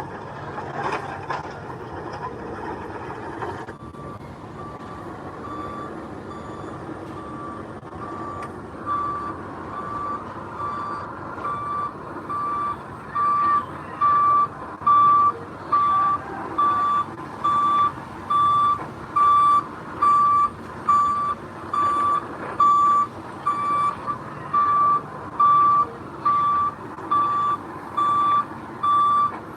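Back-up alarm of a heavy earthmoving vehicle beeping as it reverses, a little more than one beep a second, faint at first and much louder from about halfway through, over the steady rumble of its diesel engine.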